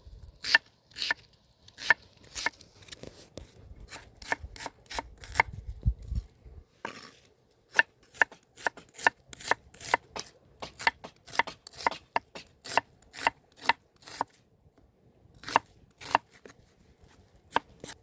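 Knife chopping on a cutting board in steady, sharp strokes, about two a second, with two short pauses.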